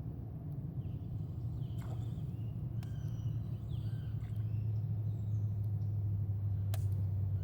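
Small birds chirping in short calls over a steady low hum that grows louder in the second half, with a few sharp clicks.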